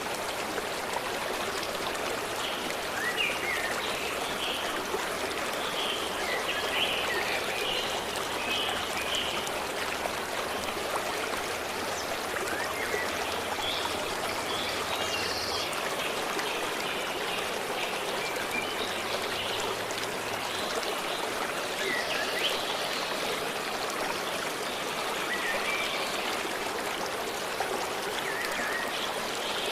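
A stream running steadily, with birds chirping on and off above it.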